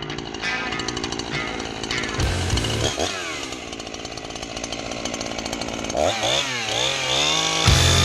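Husqvarna 345 two-stroke chainsaw running and being revved up and down, its pitch rising and falling about three seconds in and again near the end, as it cuts into a hay bale.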